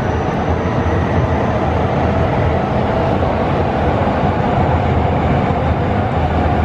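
Electric commuter train running past on an elevated railway viaduct: a loud, steady rumble of wheels on rails.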